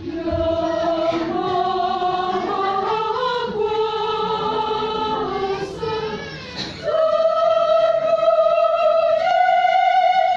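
Church choir singing a slow piece in sustained notes; after a short breath pause about two-thirds through, the voices hold long notes, stepping up in pitch once near the end.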